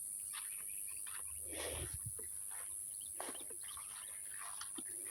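Steady high-pitched chorus of insects, with scattered light rustles and clicks on top.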